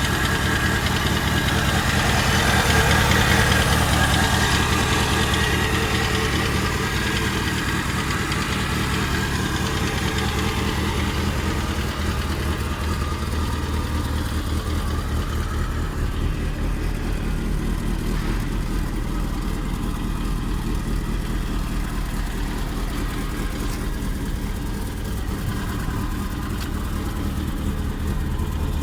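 Fiat Cinquecento 1.1's four-cylinder petrol engine idling steadily, a little louder in the first few seconds before settling to an even idle.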